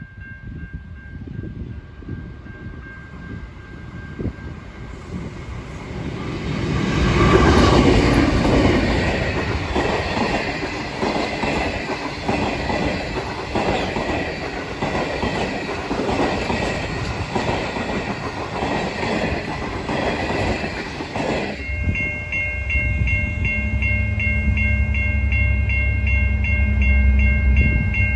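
Diesel-hauled passenger train passing, led by an NR-class locomotive. The train builds to its loudest as it draws level, then its wheels click rhythmically over the rail joints as the carriages go by. About three quarters through, this gives way suddenly to a steady low drone with high steady tones.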